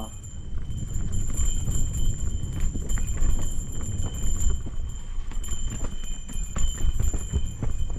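Mountain bike running fast down a rough dirt trail: a continuous clatter of knocks and rattles from the bike over roots and rocks, over a heavy rumble of wind on the microphone.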